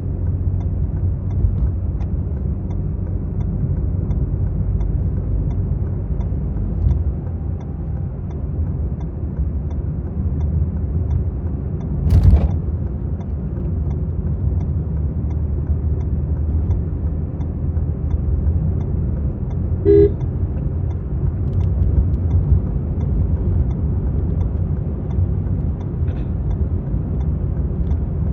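Maruti Suzuki Swift VXi being driven: a steady low engine and road rumble, with one sharp thump about twelve seconds in and a brief horn toot about twenty seconds in.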